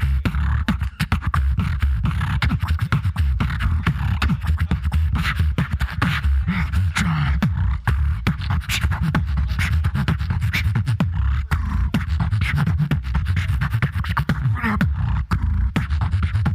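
Solo beatboxing: a continuous deep bass line under rapid mouth-made clicks and snares, with shifting pitched vocal sounds above.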